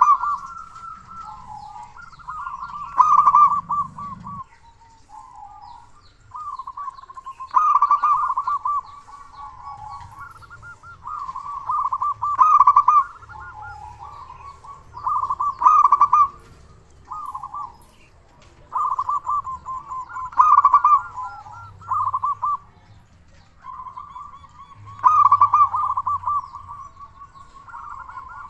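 Zebra dove (perkutut) cooing its song over and over: loud phrases of rapid, trilled coos, repeating every few seconds.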